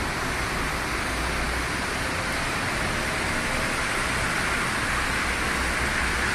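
Heavy rain beating on a moving car and tyres hissing on the wet road, heard from inside the cabin as a steady noise with a low rumble underneath.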